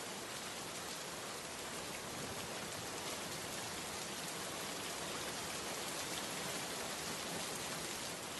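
Steady rain falling, an even hiss of drops on a surface with no let-up or change.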